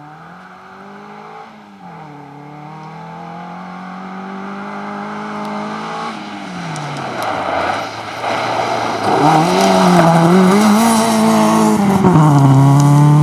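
Fiat Cinquecento rally car's engine coming closer and getting steadily louder, revving up and down through the gears. It drops in pitch as it lifts off about six seconds in, then pulls hard again from about nine seconds, loudest near the end, with tyre and gravel noise.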